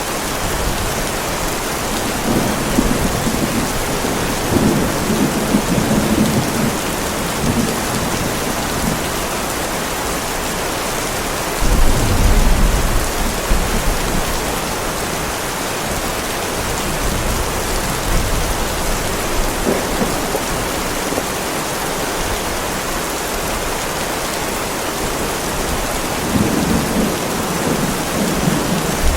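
Heavy rain falling steadily on a driveway, with thunder rumbling three times: a long roll in the first several seconds, a sudden louder rumble about twelve seconds in, and another near the end.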